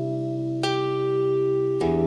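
Instrumental music: guzheng notes plucked over sustained low tones, one note about two-thirds of a second in and another near the end, each ringing on.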